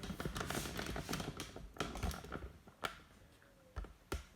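Irregular plastic clicks and light knocks from handling a fabric softener bottle at a washing machine's softener dispenser, busiest in the first two seconds with a few more clicks near the end.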